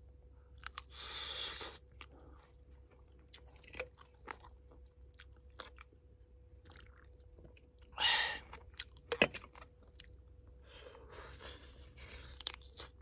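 A person chewing and biting into a braised chicken drumstick close to the microphone, with scattered small clicks and short breathy bursts of noise.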